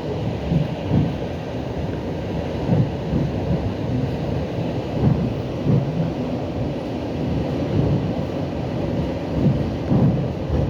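Suburban electric commuter train running at speed, heard from inside the carriage: a steady low rumble of wheels on rails with irregular low thuds and knocks.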